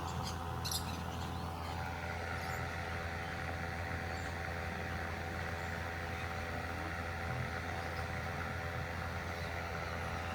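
Steady low hum with a few short, high parakeet chirps in the first second.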